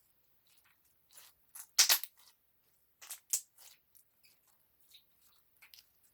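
Close-miked eating sounds: a series of sharp, crisp clicks and crunches from food and utensils, loudest about two seconds in and again just after three seconds.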